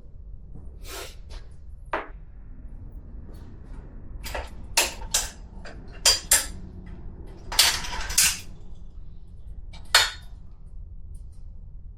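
Irregular sharp metallic clinks and knocks from hands working with the bicycle frame and its brake line, with a short scraping rattle about two-thirds of the way through.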